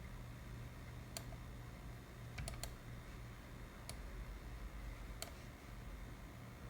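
A handful of light, sharp clicks over a steady low hum, about six in all, with three in quick succession about two and a half seconds in.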